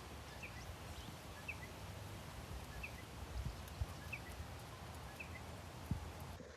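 Wind buffeting the microphone as a steady low rumble, with a few dull thumps. A small bird gives a short high chirp about once a second throughout.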